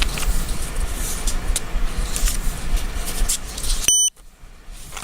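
A steady low rumble with scattered clicks and rustling. About four seconds in comes a single short electronic beep, and then the rumble drops away sharply.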